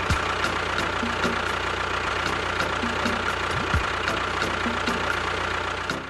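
Engine idling steadily, with a regular light ticking about four times a second.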